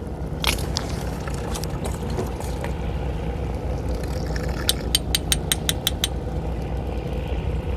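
Steady low hum of a fishing boat's idling engine, with a quick run of about nine sharp clicks, some seven a second, a little past halfway.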